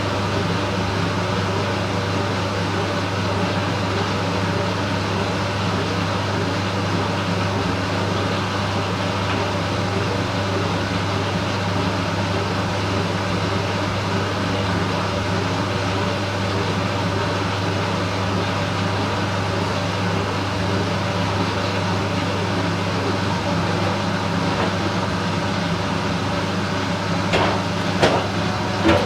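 Candy Smart Inverter CSS4 37TWMB front-loading washing machine running with a steady mechanical hum, with a few sharp clicks near the end.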